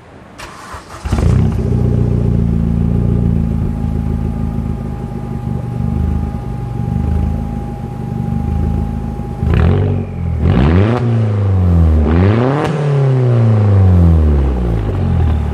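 Vauxhall Astra SRi Turbo's turbocharged four-cylinder, breathing through a Cobra Sport cat-back and decat exhaust, starts up about a second in and idles steadily. After a few seconds of idle it is revved in several quick blips, each rising and falling, then drops back to idle.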